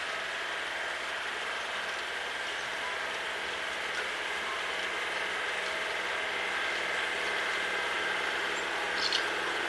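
Snowblower engine running steadily under load while clearing snow, with a short sharp click near the end.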